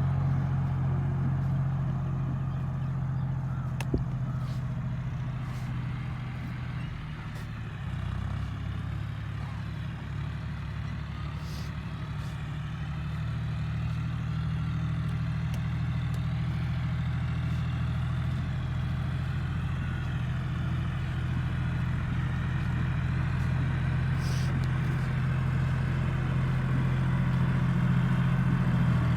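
John Deere 5045 tractor's diesel engine running steadily. It drops a little in level about seven to eight seconds in, then gradually builds up again. There is one sharp click about four seconds in.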